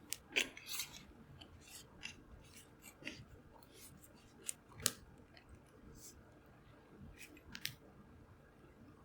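Wood bonfire crackling, with irregular sharp pops and snaps over a low background, the loudest pop a little under five seconds in.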